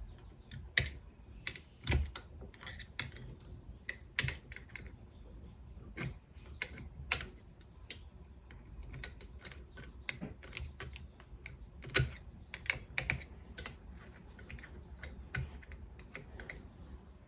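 Irregular light clicks and taps of metal parts and tools being handled while a motorcycle fork part is worked into its seat, with a few sharper knocks.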